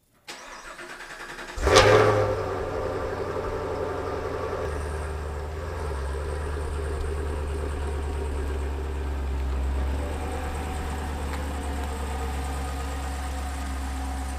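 A car engine is cranked and fires about a second and a half in, flaring loudly as it catches, then settles into a steady idle.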